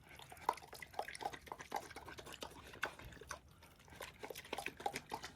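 A pig eating wet leftover noodles in sauce: faint, quick, irregular wet smacking and chewing clicks, several a second.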